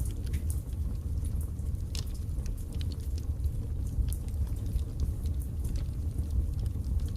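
Wood fire burning in a fireplace: a steady low rumble of the flames with small, sharp crackles and pops scattered irregularly throughout.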